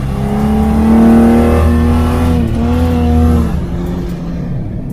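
Small four-wheel-drive truck's engine revving hard, held at high revs with a brief dip about two and a half seconds in, then easing off about a second later.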